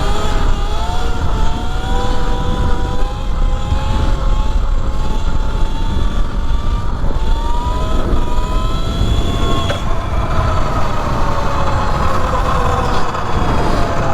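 E Ride Pro SS 3.0 electric dirt bike's motor whining as it rides. The pitch climbs near the start, holds fairly steady, then falls away over the last few seconds as the bike slows, all over a heavy rumble of wind on the microphone.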